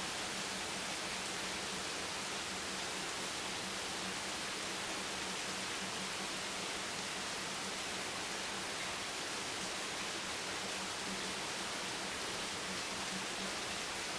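Steady rain, an even hiss with no separate drops standing out, with a faint low hum underneath.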